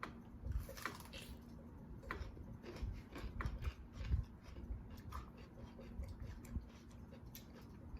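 People chewing bites of jalapeño pepper with cream cheese and Takis chips: scattered crunches and mouth clicks, most frequent in the first five seconds, then sparser.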